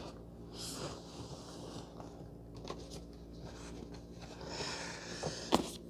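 A bag rustling as it is handled to get the gimbal out, in soft spells with a few light ticks, and one sharp knock about five and a half seconds in.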